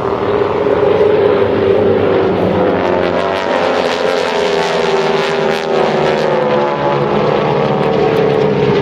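Propeller airplane flying past overhead: a loud, steady engine drone whose pitch shifts slowly as it passes.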